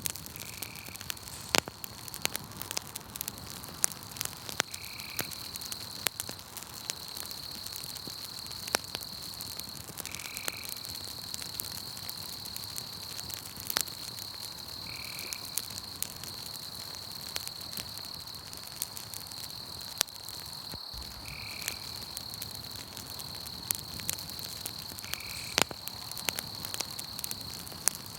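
Campfire crackling with frequent sharp pops, over a continuous high trill of night insects; a short, lower call repeats about every five seconds.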